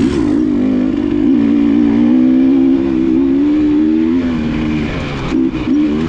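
KTM enduro dirt bike engine running at a fairly steady throttle, its pitch wavering slightly. After about four seconds it drops off, then a few short throttle blips follow near the end.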